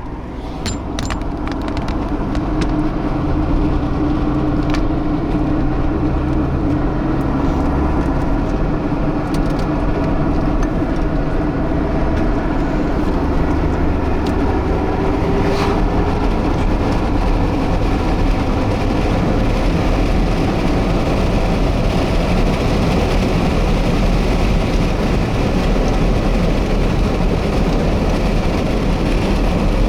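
Car driving: steady engine and tyre road noise, building over the first few seconds and then holding steady.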